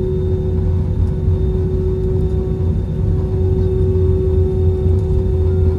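Airbus A320 cabin noise heard from a seat over the wing: a steady low rumble of engines and airflow with a constant hum over it.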